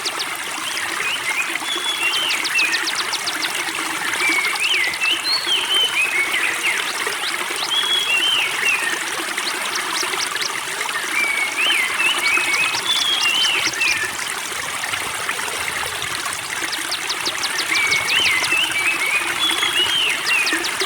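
Spring water trickling steadily, with a songbird repeating a short song every few seconds: a fast run of high ticks, then a few chirping notes.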